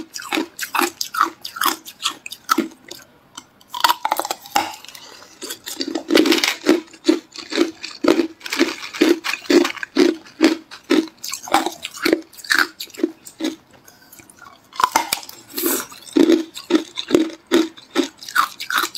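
Hard clear ice being bitten and chewed: a steady rhythm of crunching chews, about two to three a second. A few louder, sharper bites crack through, near the start, about a third of the way in and again near the end.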